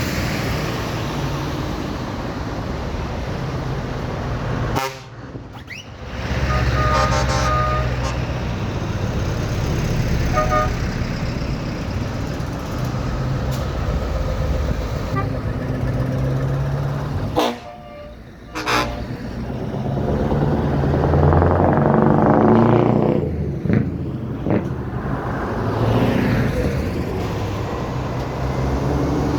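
Lorries in a convoy with their diesel engines running, and truck horns tooting a few times, most clearly about a quarter and about two-thirds of the way through.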